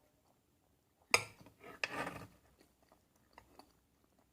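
A person eating: a sharp bite about a second in, followed by about a second of crunchy chewing, then faint small clicks of mouth or utensil sounds.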